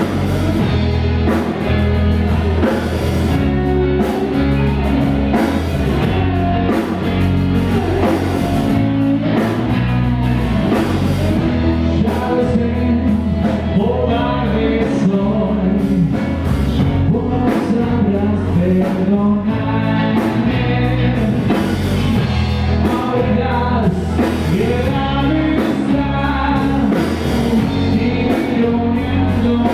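Rock band playing with a singer's voice over guitar, bass and drums, loud and steady throughout.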